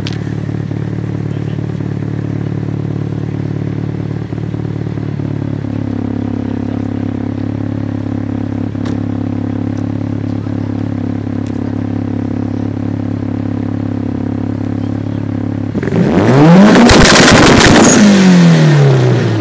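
Exhaust of a Mitsubishi Lancer Evolution IX with its turbocharged 2.0-litre four-cylinder idling steadily. Near the end it is revved once: much louder, the pitch climbs for about a second and a half and then falls back toward idle.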